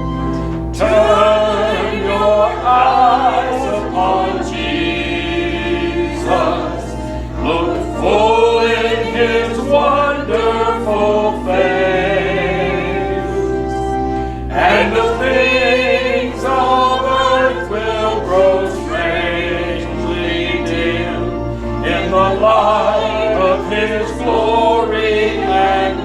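Choir singing a hymn with sustained accompaniment, in sung phrases.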